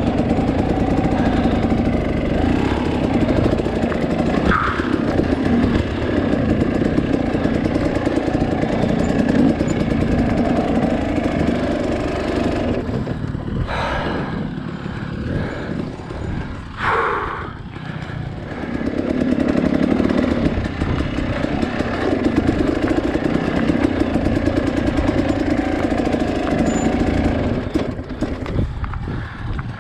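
Two-stroke dirt bike engine running under varying throttle while the bike picks its way over rough rocky trail. The engine eases off about halfway through, with a brief sharp rev, then picks back up.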